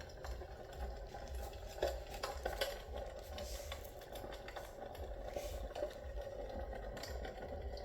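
Steam-effect electric fireplace running: a steady low hum with scattered faint clicks and ticks.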